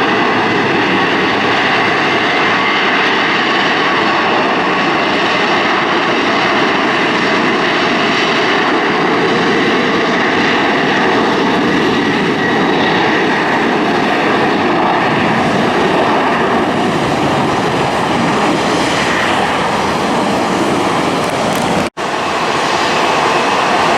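Jet airliner engines running loudly: a steady heavy rush with a faint whine in it, cut off for an instant near the end.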